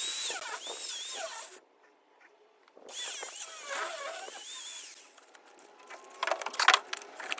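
Angle grinder with a small cutting disc cutting into the welder's metal in two bursts, about a second and a half and then two and a half seconds, with a pause between; the motor's whine dips and recovers as the disc bites. Scattered clicks and rattles follow near the end.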